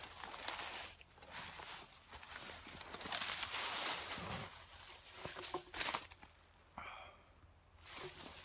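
Footsteps and rustling in leaves and brush, in irregular swells.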